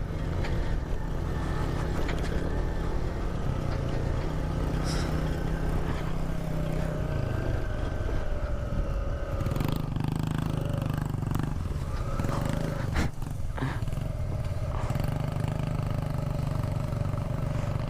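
A mini motorcycle engine running steadily, with a brief dip about 13 seconds in.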